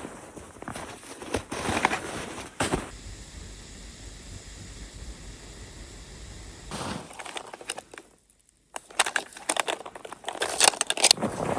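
Footsteps crunching in snow, with a stretch of steady hiss in the middle and a brief cut to silence before the crunching resumes.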